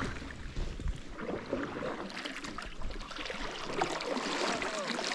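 Canoe paddling: water splashing and dripping with the paddle strokes.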